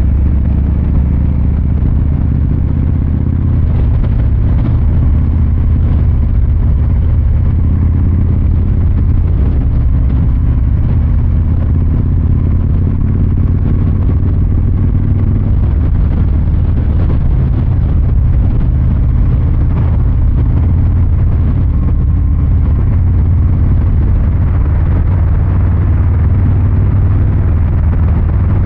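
Harley-Davidson Fat Boy 114's Milwaukee-Eight V-twin exhaust, running steadily with a low, even rumble.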